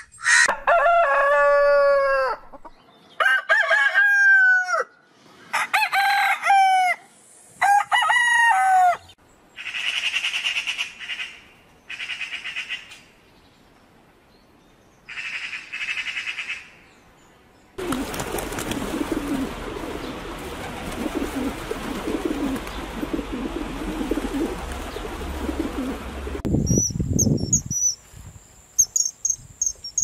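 A montage of bird sounds. First come four long calls with several overtones, each falling in pitch, then a run of harsher chattering calls, then several seconds of rustling noise ending in a low thud. Near the end there is a high, pulsing insect-like trill.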